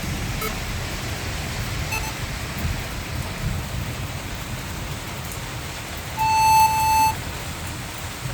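Steady rain, with a low rumble underneath. About six seconds in, a loud single-pitched beep sounds for about a second.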